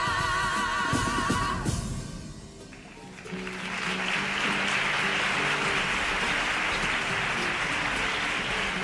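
A comparsa choir holds its last note with vibrato over percussion strokes and stops about a second and a half in. From about three seconds an audience applauds, with low instrument notes playing underneath.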